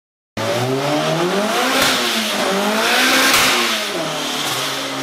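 A Honda Integra's B-series VTEC four-cylinder engine running on a chassis dyno. The revs climb, drop back sharply about two seconds in, climb again, then fall away and settle lower.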